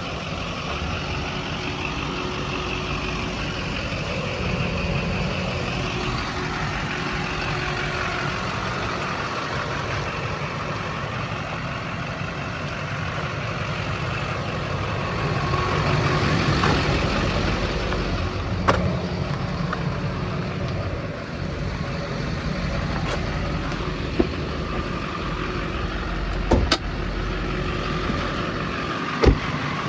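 Chevrolet Silverado 2500 HD's 6.6-litre Duramax turbo diesel V8 idling steadily, with a few sharp clicks or knocks in the second half.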